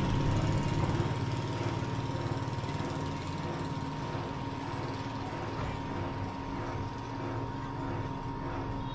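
Car driving: steady engine hum and road noise, with a thin steady high whine throughout, slightly louder in the first second or so.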